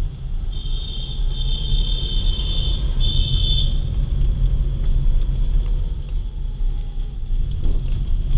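A car driving, with a steady low road and engine rumble. A thin, high, steady tone sounds over it from about half a second in until about four seconds in.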